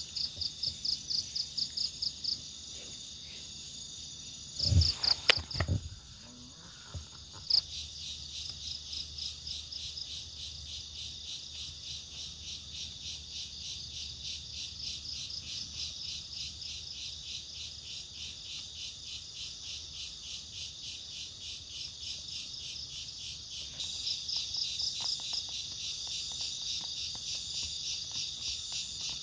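Insects chirping in a steady pulsing rhythm, about five chirps a second, that goes on throughout. A few loud knocks sound about five seconds in.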